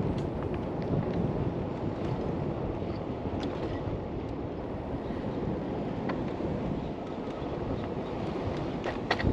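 Steady wind rush over an action camera's wind-screened microphone while cycling, with a few faint clicks and a short cluster of rattles near the end.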